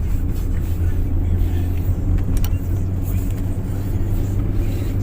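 Steady low rumble of a Nissan car's engine and tyres, heard from inside the cabin while driving, with one faint click about two and a half seconds in.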